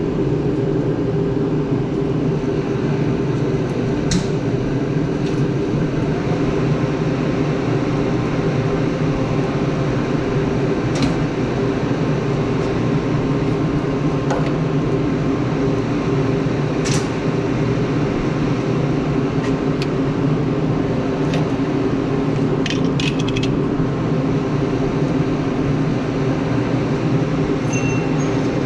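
An engine running steadily at a constant speed, with a few light clicks and taps scattered through it.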